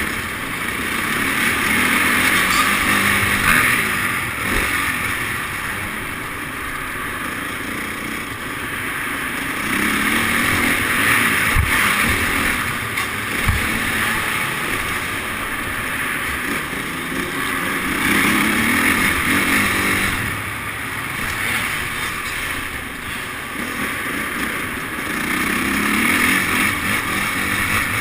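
Motocross motorcycle engines running on an indoor track, the engine noise swelling and fading about every eight seconds as the bikes rev and ease off around the laps.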